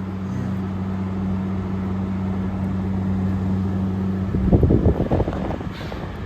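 A 2023 General Electric 5,000 Btu window air conditioner runs in fan-only mode with the compressor off, giving a steady low hum. About four seconds in the hum cuts off. A second or so of louder irregular rumbling and clattering follows.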